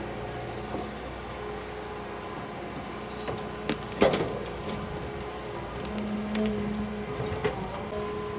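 Large excavator's diesel engine running steadily under load, with small knocks and one loud sharp knock about four seconds in as it works at a tree stump.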